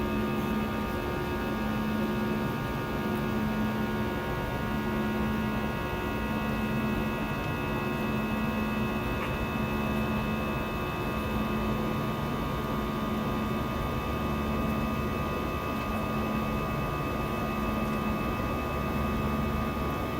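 Steady cabin drone of an Airbus A320-216 with its CFM56 engines running, with several fixed high tones over a low hum that swells and fades about every second and a half.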